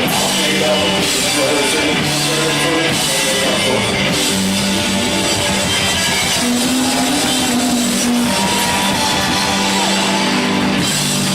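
Rock band playing live: electric guitars and drums.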